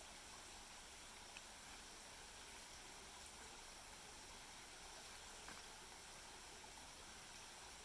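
Near silence: a faint steady hiss of outdoor background, with a couple of faint soft ticks.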